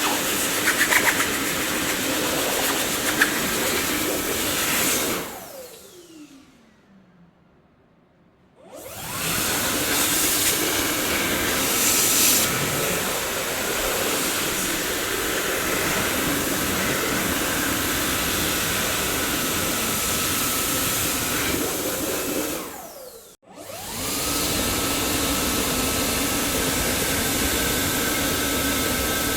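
Dyson vacuum cleaner running with a steady whooshing hiss and a high whine. About five seconds in it is switched off and the motor winds down in falling pitch. It restarts a few seconds later, cuts out briefly again near the end and spins back up.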